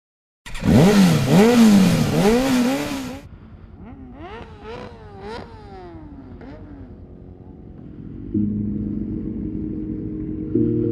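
Motorcycle engine revved hard several times in quick succession, its pitch rising and falling, cutting off about three seconds in. Fainter revs follow, then steady music comes in near the end.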